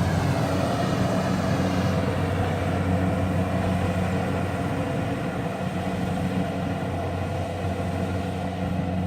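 A machine's engine running steadily, a low even drone with a clear hum at a fixed pitch.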